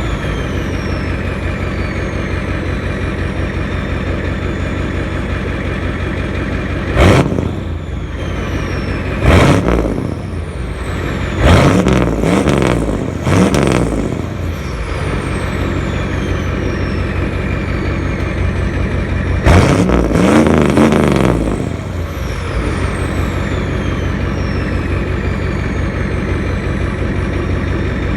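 Straight-piped 1993 Ford F250 7.3L IDI diesel with a Banks Sidewinder turbo idling steadily. It is revved in about five short blips, each rising and then settling back to idle, with a high whistle falling away after the revs.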